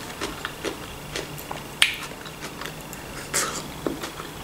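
A person chewing food with the mouth closed: scattered wet clicks and smacks, with one sharper click a little under two seconds in, while eating a cherry tomato.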